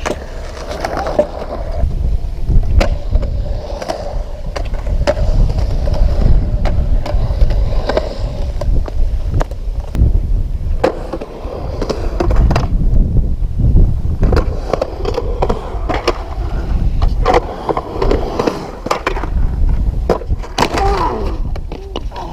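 Skateboard on OJ Dream Rider urethane wheels and Bear Polar Bear 10" trucks rolling over concrete: a steady rolling rumble that swells and eases, with many sharp clacks and knocks from the wheels and board.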